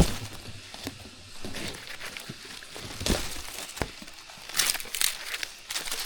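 Irregular rustling and crackling, broken by a few sharp knocks, with a cluster of louder rustles a little past the middle.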